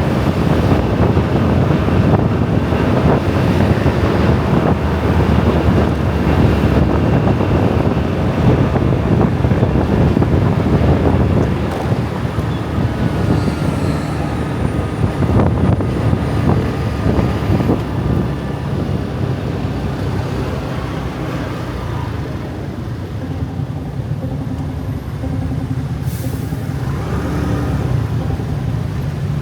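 Dense traffic of many motor scooters and other vehicles streaming past, a steady rumble of engines and tyres that eases somewhat about halfway through.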